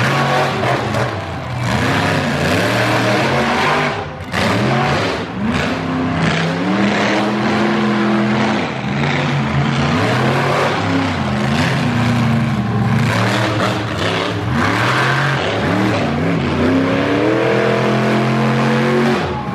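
Monster truck engine revving hard, its pitch climbing and falling again and again as the throttle is worked on and off during a run.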